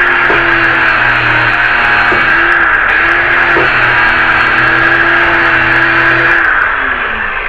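Handheld electric power tool running at full speed while smoothing Bondo body filler, then winding down with a falling pitch near the end.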